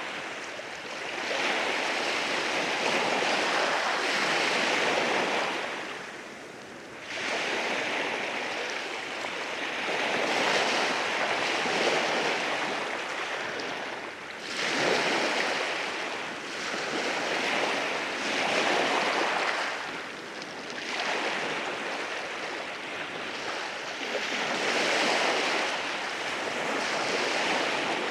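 Sea waves rolling in over rocks and washing back, a continuous rush that swells and eases every few seconds.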